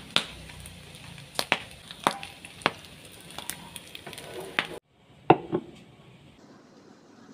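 Chopped pig ear frying in oil in a nonstick pan: an even sizzle with a handful of sharp pops and clicks as it is stirred and scooped with a silicone spatula. After a sudden cut, two sharp knocks about half a second apart, then a faint hiss.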